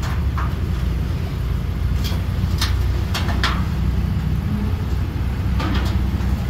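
A car's engine running slowly and steadily as the car is backed down a trailer's loading ramps, with several short high-pitched squeaks or chirps over it.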